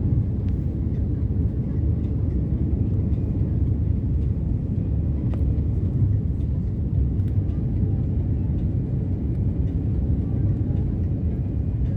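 Airliner cabin noise: a steady low rumble from the engines and the airflow over the fuselage, heard inside the cabin.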